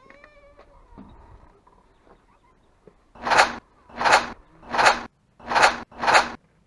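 Airsoft hi-cap magazine shaken back and forth, the loose BBs inside rattling in five loud, rhythmic bursts starting about three seconds in. This is the rattle that can give away a player's position.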